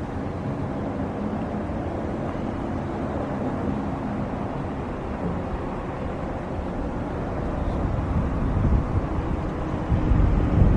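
Jet airliner engines running steadily, with wind buffeting the microphone, stronger near the end.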